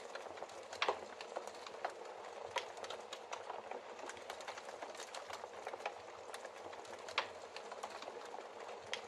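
Wood logs burning in a fireplace: a steady hiss of flame with frequent small crackles and two louder pops, one about a second in and one near the end.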